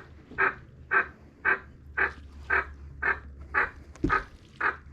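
A short harsh call repeated at an even pace, about two a second, with one dull thump about four seconds in.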